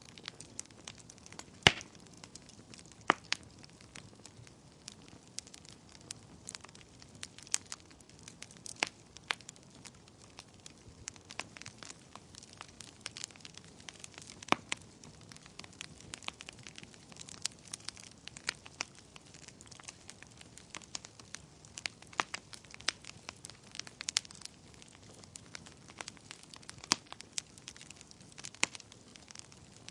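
Wood fire crackling and popping in a fireplace: irregular sharp snaps over a soft steady hiss of burning, with a loud pop about two seconds in.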